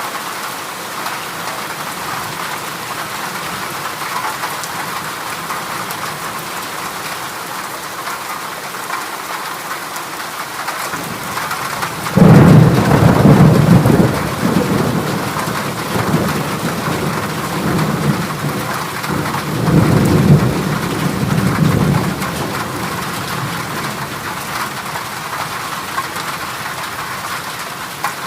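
Heavy rain drumming steadily on a corrugated zinc roof. About twelve seconds in, thunder breaks into a loud low rumble, swells again about eight seconds later, then dies away under the rain.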